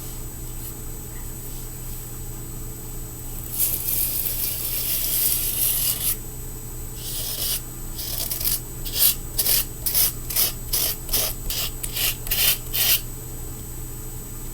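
Fingerboard grip tape scraped along the deck's edge to score it for trimming. One long rasping scrape comes first, then after a pause a run of about a dozen short rubbing strokes, two to three a second.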